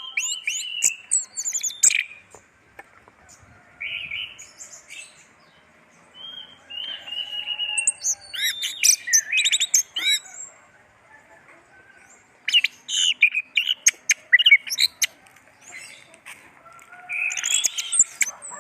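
Orange-headed thrush (anis merah) singing in bursts of rapid, varied, high chirping phrases, with pauses of a second or two between bursts.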